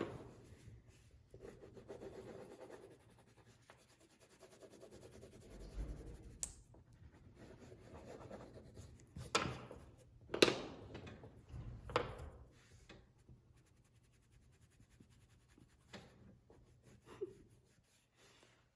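Colouring on paper: a pen scratching and rubbing in short strokes, with a few sharp taps about halfway through.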